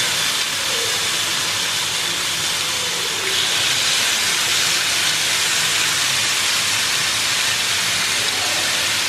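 Chicken breast fillets sizzling in hot oil in a nonstick frying pan, a steady frying hiss that grows a little louder about three seconds in.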